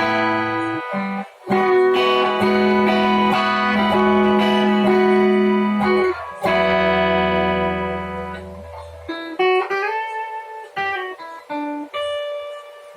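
Jcraft LTX Telecaster-style electric guitar being played: ringing chords held for several seconds at a time with two short breaks, then a run of separate single notes that grows quieter toward the end.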